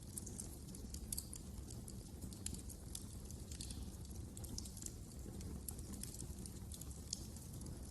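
Wood fire crackling in a fireplace: frequent irregular small snaps and pops over a steady low rumble of burning logs.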